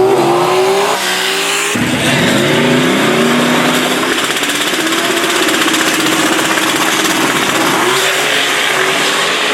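Drag race cars' engines running hard at full throttle, several engine notes rising and falling over a dense roar. The sound starts abruptly and changes character about two seconds in.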